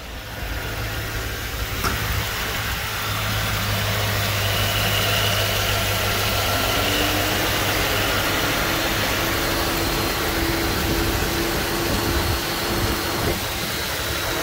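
2007 Chevy Tahoe's V8 engine starting up and settling into a steady idle, driving a serpentine belt that turns three high-output alternators.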